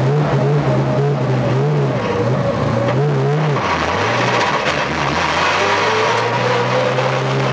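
Porsche 911 GT3 Cup race car's flat-six engine at low revs, heard inside the cabin. Its pitch rises and falls in short throttle blips for the first few seconds, then settles into a steady, slowly rising note as the car pulls away.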